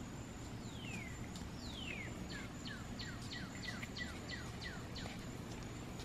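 A songbird whistling: two long falling notes, then a run of short quick falling notes, about three a second. Under it runs a faint, steady high insect trill.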